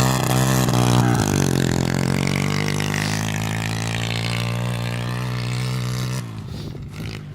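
Small pit bike engine running loud at steady revs, with a few quick rev changes in the first second, then dropping away abruptly about six seconds in.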